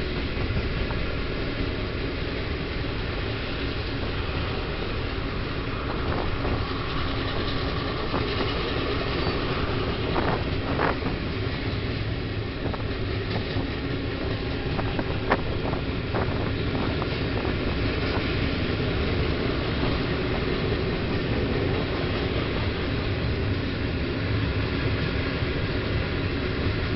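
A long Canadian Pacific train's cars rolling past in a steady rumble. There are brief wheel squeals about ten seconds in and a sharp click a few seconds later.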